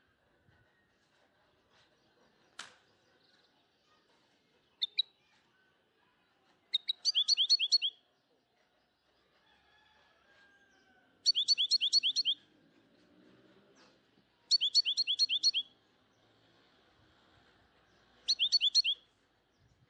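A bird chirping in quick trills: four bursts of rapidly repeated falling chirps, each about a second long and a few seconds apart, after a brief chirp. There is a single click before the first chirps.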